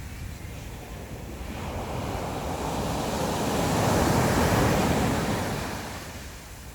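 A sea wave breaking and washing ashore. It swells from about a second and a half in, peaks around four to five seconds, then fades. Wind buffets the microphone underneath.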